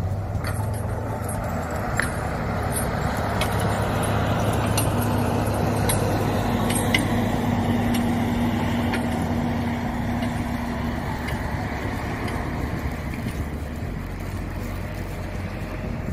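A motor vehicle running, heard as a steady engine hum under road or wind noise, with a steady engine tone for about six seconds in the middle and a few faint clicks.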